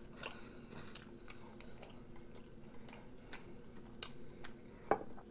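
Faint close-miked chewing: scattered soft mouth clicks and smacks, with a sharper click near the end. Light handling of a soft burger bun sounds underneath, over a faint steady hum.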